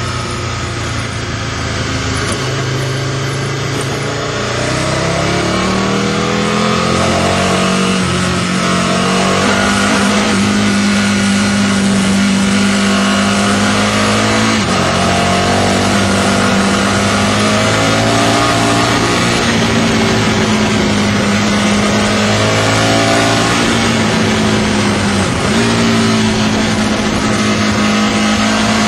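Aprilia RSV Mille's V-twin engine through a Micron aftermarket exhaust, on the move: the revs climb over the first several seconds, then hold fairly steady. The engine note dips briefly about halfway through and again near the end. A steady rush of noise, likely wind, runs underneath.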